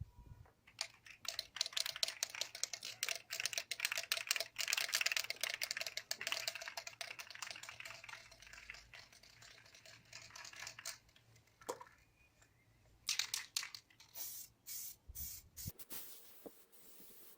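Car paintwork being rubbed down by hand: a fast, dense run of scratchy strokes for about ten seconds, then a few short separate scrapes near the end.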